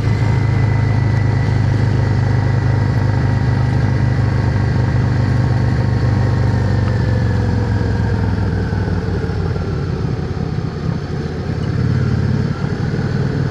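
Yamaha XVS650's air-cooled V-twin engine running steadily under way on the road. Its note eases gradually lower from about halfway through, then picks up again near the end.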